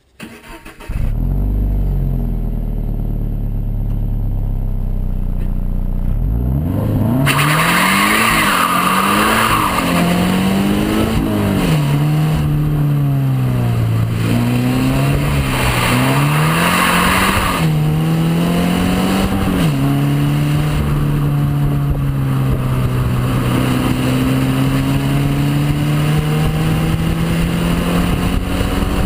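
Subaru BRZ / Toyota GT86 2.0-litre flat-four engine and exhaust. It runs at a steady low note for the first few seconds, then revs rise and fall again and again as the car is driven and accelerated, with a broad hiss over the middle stretch and a slow, steady climb in revs near the end.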